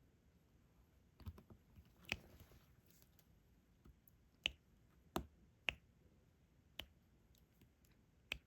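Diamond painting pen tapping resin drills onto the canvas: quiet, sharp clicks, about seven of them at irregular intervals.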